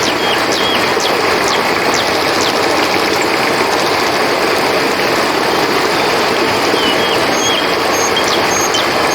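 Steady rush of flowing river water, with scattered short high chirps over it, a few at a time.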